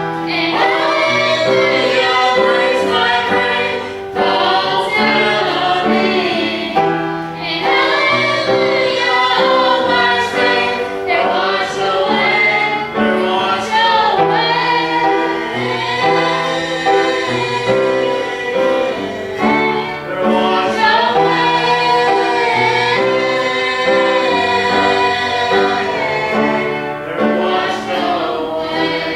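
A group of singers singing a gospel song in harmony over sustained instrumental chords.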